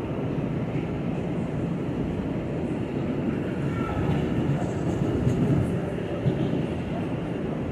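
New York City subway (A) train running along the track: a steady rumble of wheels and car, with faint brief squeals.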